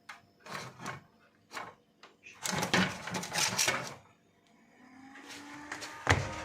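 Clicks and rustling of hands working on an opened desktop PC, then its cooling fans spin up with a rising whir that settles into a steady hum. A sharp click comes near the end.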